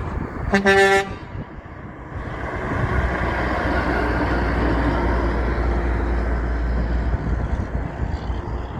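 A truck horn gives one short blast, then a heavy truck's engine rumbles steadily as it passes.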